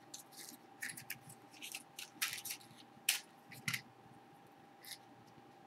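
Faint, scattered scratches and rustles of hands pressing loose pipe tobacco into a pipe bowl.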